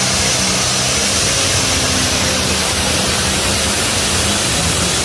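Turbocharged diesel pro stock pulling tractor under full power on a pull. It makes a loud, dense wall of engine noise with low engine tones and a steady high whine above them.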